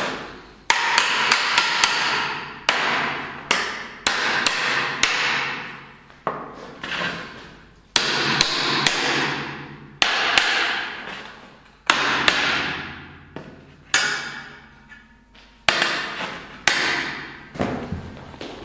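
A hammer striking steel about fifteen times, sometimes in quick runs of taps and sometimes as single blows a second or two apart, the metal ringing and fading after each blow.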